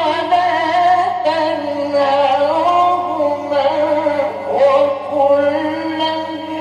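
Male Quran reciter's voice holding a long, ornamented melodic line in tajweed style, the pitch wavering and sliding between notes, over a steady low hum.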